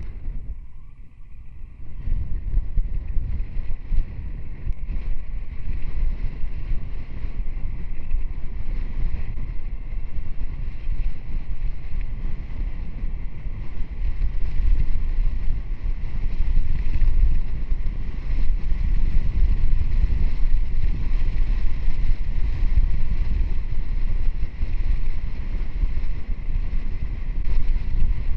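Wind buffeting the microphone of a moving motorcycle: a steady low rumble that dips briefly about a second in and grows a little louder later on.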